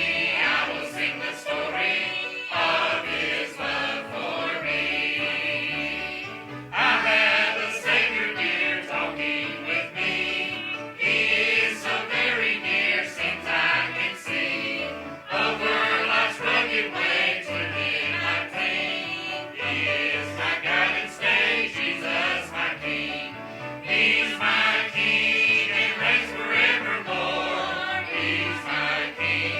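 Church choir singing a hymn over instrumental accompaniment with a steady bass line, each sung phrase starting strongly every few seconds.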